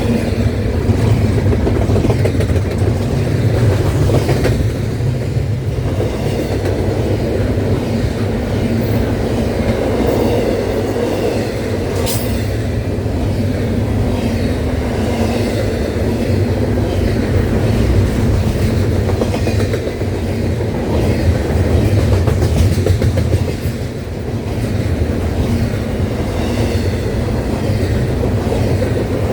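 Cars of a CSX intermodal freight train rolling past: a steady, loud rumble with the wheels clicking over the rail joints.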